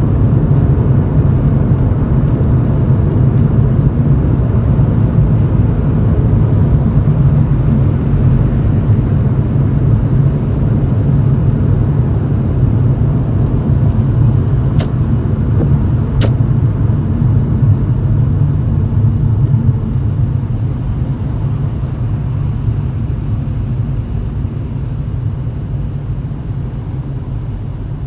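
Toyota Chaser GX100's straight-six exhaust through an aftermarket Reinhard cannonball muffler with mid-pipe and silencer, heard from inside the cabin while driving at low speed: a steady low drone that gradually gets quieter over the last several seconds. Two brief sharp clicks about midway through.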